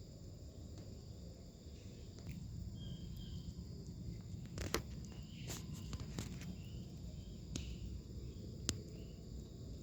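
A steady, high-pitched insect chorus, like crickets, with a low background hum and a few sharp clicks in the second half.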